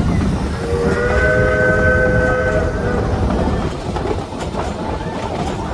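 A 1920 Baldwin steam locomotive's whistle sounds one long chord blast, about two and a half seconds, as a warning signal. Under it runs the steady rumble and clatter of the moving train.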